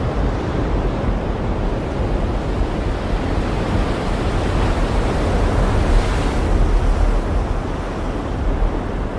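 Caspian Sea surf washing onto the shore, with wind buffeting the microphone. A wave swells and breaks louder about six seconds in.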